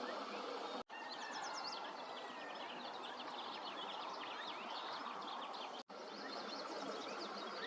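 Small birds chirping, with many short high calls in quick succession over a steady background hiss. The sound cuts out briefly twice.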